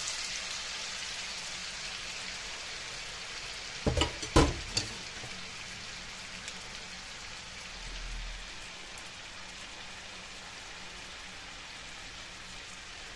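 Diced raw potatoes sizzling in hot oil in a frying pan, just tipped in; the steady sizzle is loudest at first and eases a little. A few sharp knocks about four seconds in.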